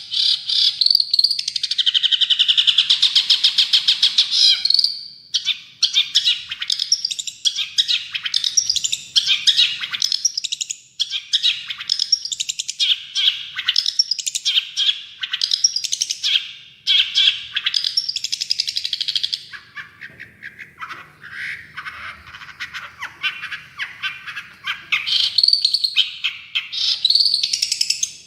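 Long-tailed shrike in full song: a fast, unbroken run of chattering, scratchy notes in phrases several seconds long, with a few short breaks.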